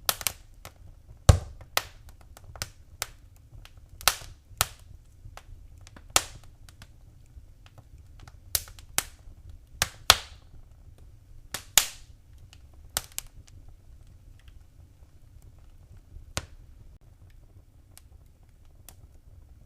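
Wood fire crackling in a fireplace: sharp, irregular pops and snaps, busy for the first dozen seconds and thinning out after that, over a faint low rumble of the flames.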